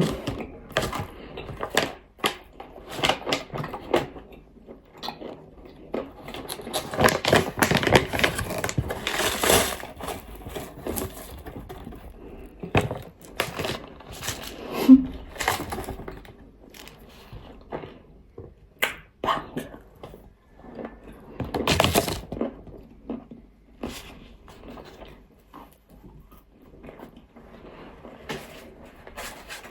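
Nzu, dry edible clay, crunching and crumbling as it is bitten and chewed close to the microphone: irregular sharp cracks and crackles, thickest about a third of the way in and again about three quarters of the way through.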